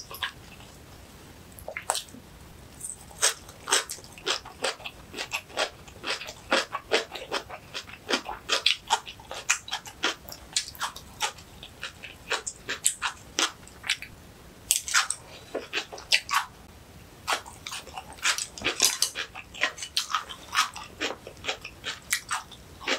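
Cucumber kimchi being chewed close to the microphone: rapid crisp crunches in dense runs, starting about two seconds in.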